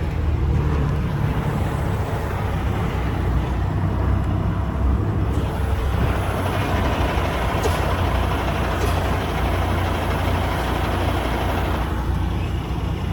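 Semi-truck's diesel engine running steadily, heard from inside the cab, with a louder rushing noise joining in about five seconds in and easing off near the end, and a couple of faint clicks.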